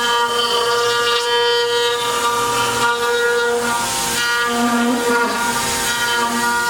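5-axis CNC router's spindle running with a steady high whine while the cutter engraves wood, with a hiss of cutting that swells about four seconds in.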